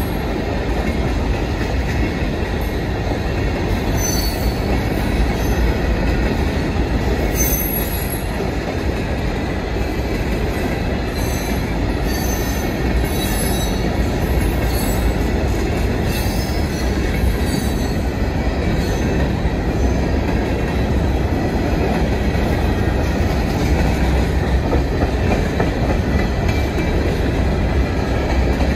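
Coal hopper cars of a freight train rolling past: steady running noise of steel wheels on rail, with intermittent high-pitched wheel squeals from about four to eight seconds in and again from about eleven to seventeen seconds in.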